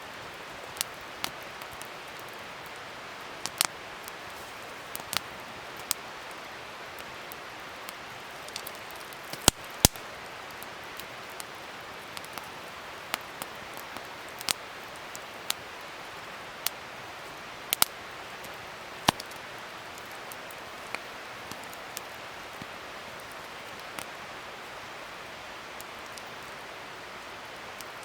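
Wood fire crackling: a steady hiss with irregular sharp pops and snaps, the loudest two close together about ten seconds in.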